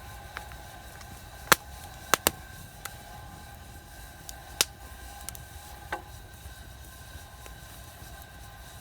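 A few sharp clicks or knocks: one about one and a half seconds in, a quick pair just after two seconds, another near the middle and a softer one about six seconds in, over a faint steady background tone.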